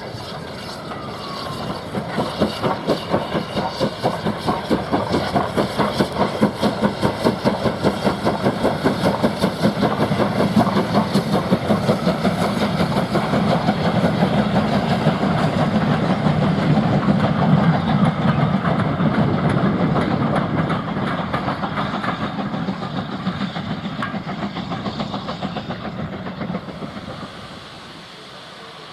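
Steam locomotive working a train past, its rapid, rhythmic exhaust beats and rolling wheels building up, staying strong, then fading away as it moves off.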